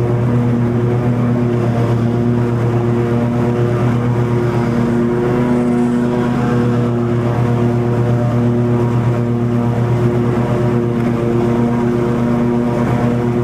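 Toro TimeCutter 50-inch zero-turn mower running steadily at mowing speed, engine and cutting blades going through long grass, an even drone with no change in pitch.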